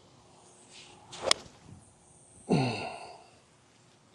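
Golf shot with a 6-iron: a short swish builds into one sharp crack of the club striking the ball about a second in. About a second later comes a person's drawn-out exhale that falls in pitch.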